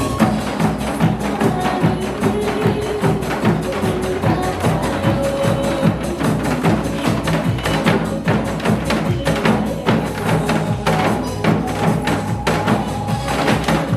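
Korean janggu (hourglass drums) struck in a quick, steady rhythm over recorded song accompaniment.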